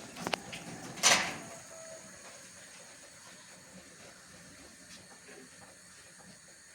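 A couple of light clicks, then one short, loud scraping swish about a second in, as of something sliding or being moved; after that only faint room noise.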